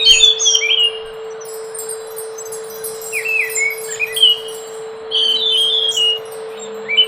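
Scaly thrush (anis macan) singing: short phrases of clear, fluty, down-slurred whistles, three times with gaps between them, over a steady low hum.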